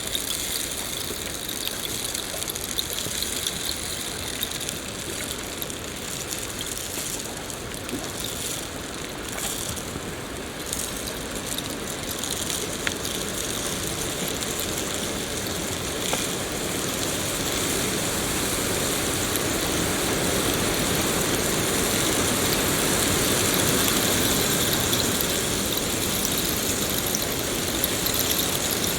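Steady rain falling, a continuous hiss with faint scattered drips and ticks. It grows slightly louder in the second half.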